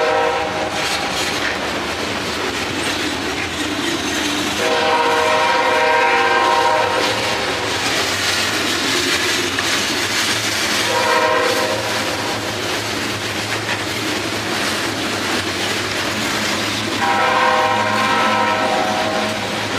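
Loaded freight cars of a CSX mixed freight rolling past with steady wheel and rail clatter, while the train's air horn sounds ahead in long and short blasts: a horn blast ending just after the start, a long one about five seconds in, a short one near eleven seconds, and another long one from about seventeen seconds.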